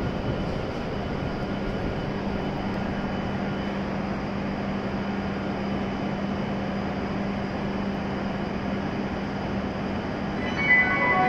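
Steady hum and rush of a stopped W7 series Shinkansen train standing at the platform, with one low steady tone. About ten and a half seconds in, a chiming station melody begins.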